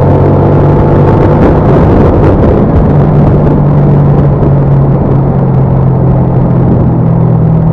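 Loud, steady vehicle engine drone and road noise while on the move, with no change in speed.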